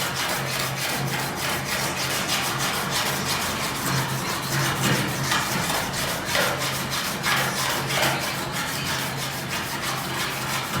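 Steel sheet metal being worked down with an abrasive power tool over a welded-up patch: a continuous rasping scrape over a steady low hum.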